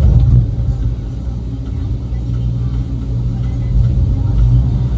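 Heavy equipment's diesel engine running steadily with a loud, low drone.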